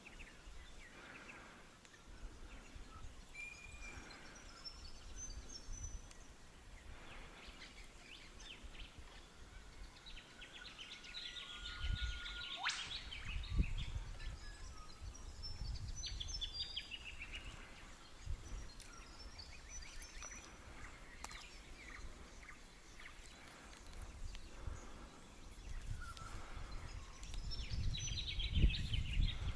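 Wild birds chirping and trilling in bushland, with a low rumble now and then and one brief sharp sound about midway.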